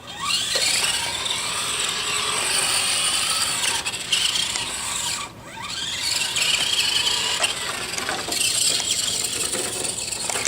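Electric RC car's motor and gears whining as it drives, the pitch rising and falling as it speeds up and slows. About five seconds in it briefly cuts out, then rises again as the car accelerates.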